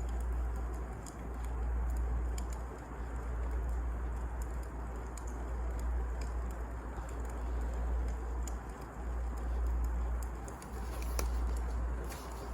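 Wood fire burning in a fireplace: a steady low rumble of flames that swells and ebbs, with scattered small crackles and pops.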